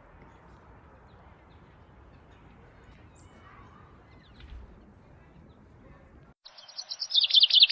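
Faint outdoor ambience with a few faint songbird chirps. About six seconds in it cuts abruptly to a loud, fast run of repeated chirping notes that grows louder.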